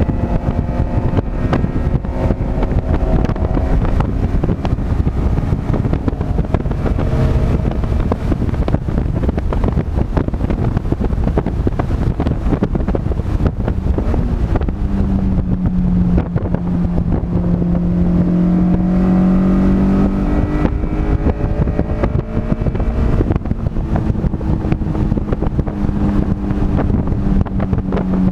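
A vehicle's engine running at speed, its note rising and falling with the revs, under heavy wind noise on the microphone. A steady low drone comes in about halfway through.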